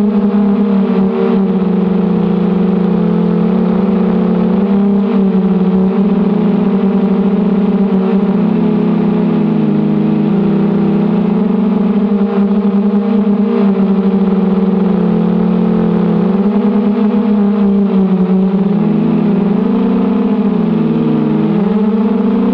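The 1806 2280 kV brushless motors and propellers of a 250-size FPV racing quadcopter, making a loud, steady buzzing whine. The pitch sags and comes back up a few times with the throttle, most deeply near the end.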